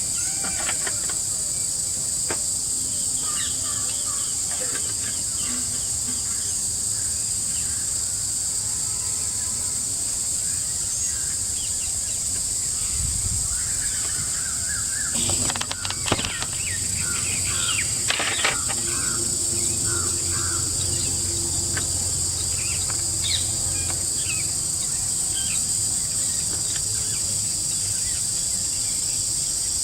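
Steady high-pitched drone of forest insects with scattered bird calls, and a few short knocks about halfway through.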